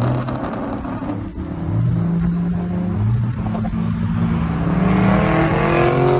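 Car engine revving: its pitch swoops up and falls back a few times, then climbs steadily near the end.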